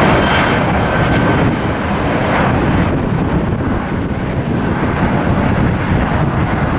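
Airliner engine noise that slowly dies away, with wind buffeting the microphone.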